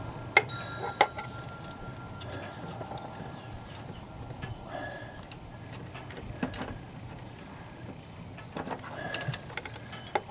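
Sparse sharp metallic clicks and taps of a hand wrench on a bolt being turned a little at a time in a tight spot, with a small cluster of clicks near the end.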